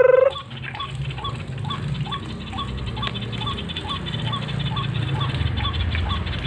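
A bird giving a steady series of short, evenly spaced call notes, about two to three a second, over a low background rumble.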